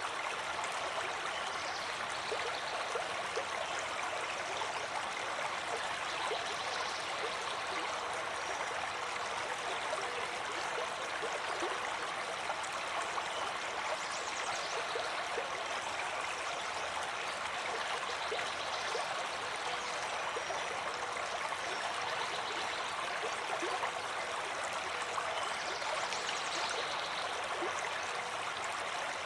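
Flowing water of a stream, running in a steady, unbroken rush.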